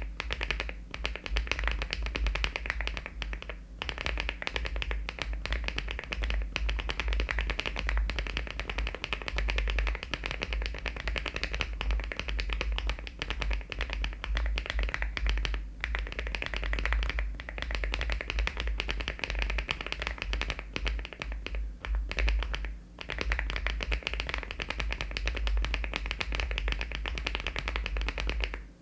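Fast, continuous typing on a LEOBOG Hi75 aluminium-case mechanical keyboard fitted with HMX switches and Cherry-profile keycaps: a rapid run of key clacks with a few short pauses.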